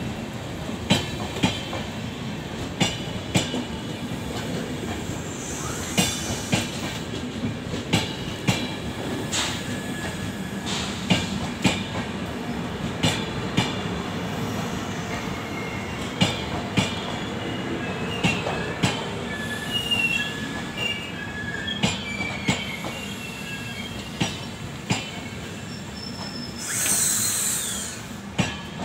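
LHB passenger coaches of the 17020 Hyderabad–Hisar express rolling slowly past on arrival, their wheels clacking over rail joints, mostly in pairs every one to two seconds. Thin wheel squeal comes in midway. A short hiss sounds near the end.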